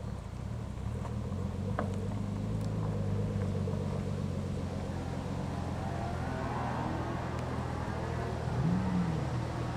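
Car engine running at low revs as cars drive slowly out of a show, with a short blip of the throttle about nine seconds in, the pitch rising and falling back.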